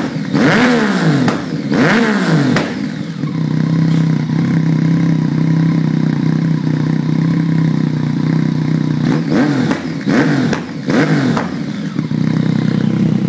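Yamaha MT-09's inline three-cylinder engine through a Bos race exhaust, revved in two quick throttle blips, then settling to a steady idle. About ten seconds in it is blipped twice more and drops back to idle.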